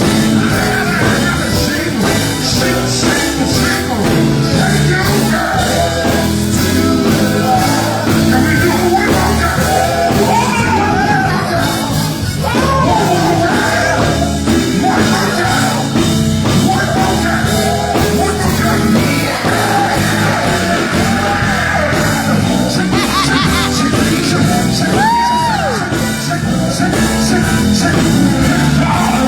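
Gospel group performing live: singing over a loud amplified band.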